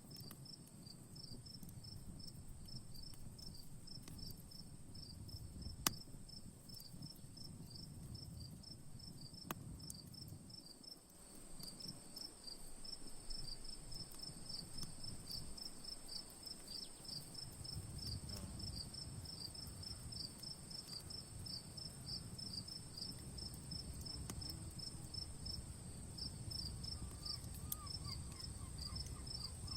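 Crickets chirping in a rapid, even run over a steady high insect buzz. Underneath is a low rumble, and two sharp pops from a campfire come in the first ten seconds.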